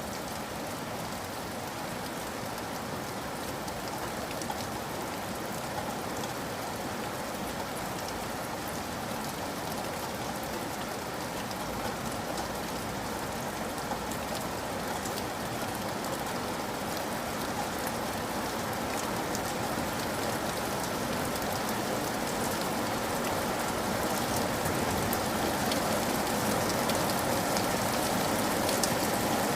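Steady rain falling, a continuous hiss with fine scattered drop patter, growing slowly louder.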